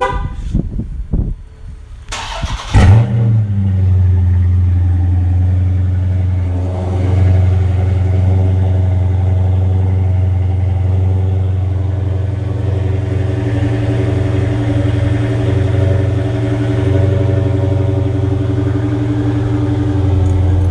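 2016 Dodge Charger Scat Pack's 6.4-litre HEMI V8, exhausting through Flowmaster Super 10 mufflers, starting from cold: it cranks about two seconds in and catches with one loud flare. It then settles into a steady, deep cold idle.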